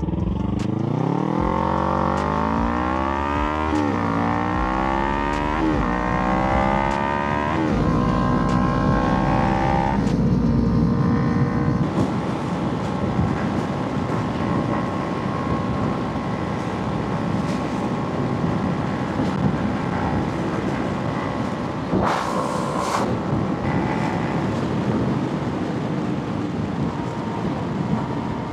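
Kawasaki Ninja 300 parallel-twin engine accelerating through about four upshifts, its pitch climbing and dropping back at each shift. It then settles into a steady cruise with wind rush, and there is a short burst of noise about 22 seconds in.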